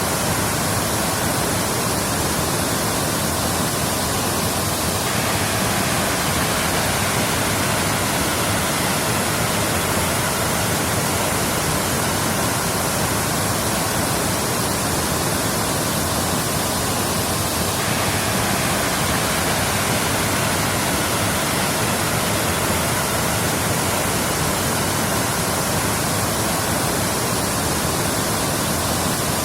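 Waterfall: a steady, even rush of falling water with no breaks or separate sounds.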